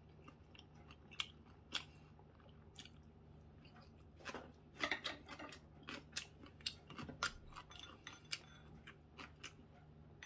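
Close-up eating sounds: chewing fried pork cutlet, with scattered sharp clicks of chopsticks and a spoon against the dishes, busiest around the middle.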